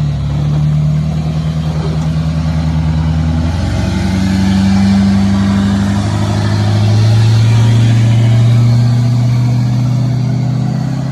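Truck engine running loudly under load, its pitch stepping up about three and a half seconds in and then holding steady.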